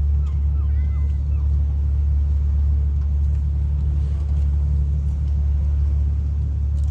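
Steady low engine drone of a sightseeing ship under way, heard on board.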